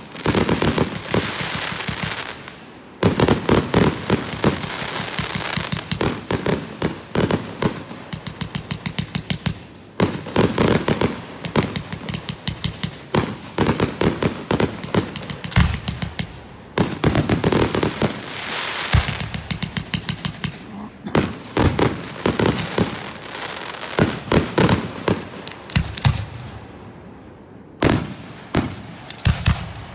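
Aerial fireworks shells launching and bursting in a rapid barrage, many sharp bangs a second coming in waves with short lulls. Near the end it thins to a few single bangs.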